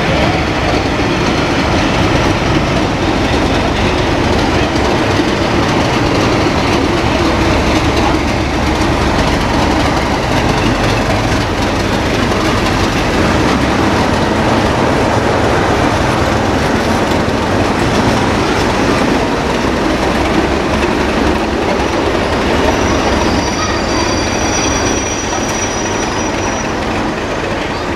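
Loco-hauled train of coaches passing at speed, with a steady rumble and wheels clattering over the rail joints. Partway through, the rear locomotive passes: Class 37 diesel 37403, with an English Electric V12 engine. Near the end the noise eases and a thin high squeal sounds briefly.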